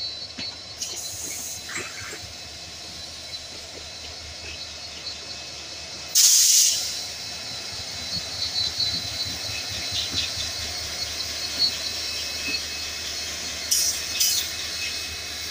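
Indian Railways passenger train moving slowly past: a steady rumble of wheels on rail with scattered clicks, and a loud short blast of hissing air about six seconds in.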